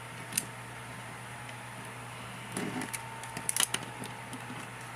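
Plastic action figure being handled: a few short clicks and taps of its plastic parts, once about a second in and in small clusters past the middle, over a steady low hum.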